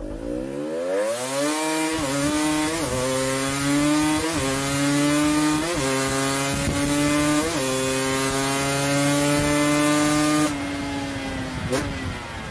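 KTM two-stroke motorcycle engine at high revs with a raspy, saw-like note. The revs climb over the first two seconds, then hold high with about five brief dips like quick upshifts. About ten and a half seconds in, the throttle is cut and the note falls away.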